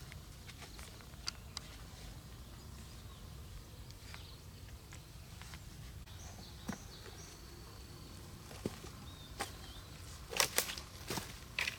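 Outdoor ambience: a steady low rumble with scattered light clicks, a faint high thin whistle around the middle, and a quick cluster of sharper snaps and crackles near the end.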